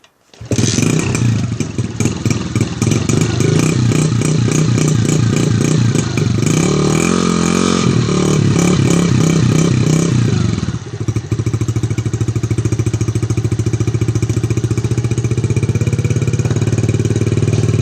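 Suzuki DR-Z70's small single-cylinder four-stroke engine starting from cold on the kick-starter and catching at once. It runs unevenly with the pitch rising and falling under the throttle, then settles into a steady idle about eleven seconds in.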